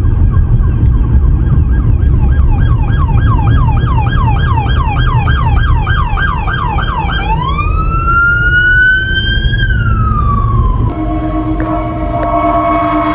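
Emergency vehicle electronic siren in yelp mode, about three quick sweeps a second, switching about seven seconds in to a slow wail that rises and then falls. Near the end it cuts to a steady horn-like tone, over a heavy low rumble of engine and road noise.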